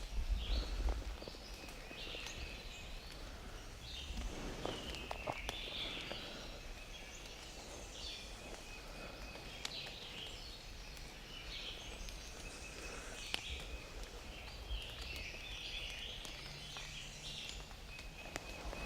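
Songbirds singing and chirping in the woods, many short calls one after another, with a few faint clicks and a brief low rumble about a second in.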